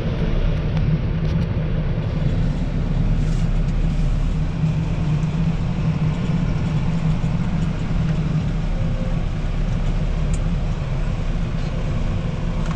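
Tractor engine running steadily with a low rumble while working the front loader bucket.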